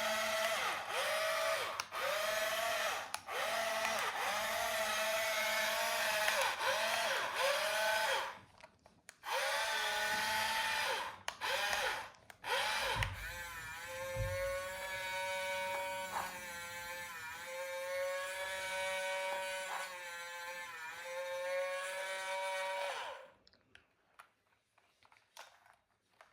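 A small electric toy motor whining through its gears. Its pitch dips in a repeating pattern at first, then it runs more steadily with a few dips, stops briefly twice, and cuts off near the end.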